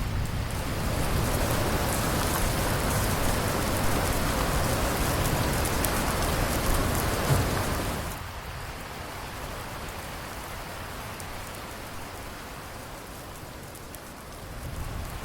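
Steady rain falling, heavy with a low rumble beneath it for about the first half, then dropping suddenly to a lighter, quieter patter about eight seconds in.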